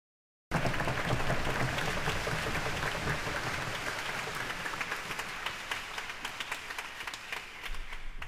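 Audience applauding, cutting in suddenly about half a second in and slowly thinning out.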